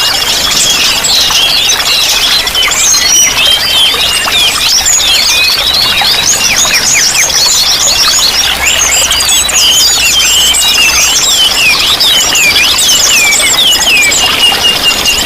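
A dense chorus of many small songbirds chirping and twittering over one another in quick, high, sweeping notes without a break, with a steady high buzzing trill underneath and an even haze of running water.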